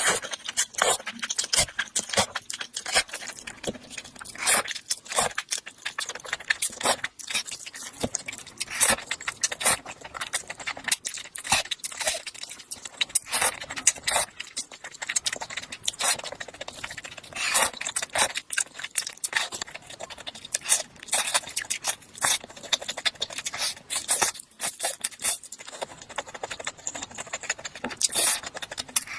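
Close-miked eating sounds of someone eating Chinese food fast: rapid, irregular chewing and crunching with small clinks and scrapes.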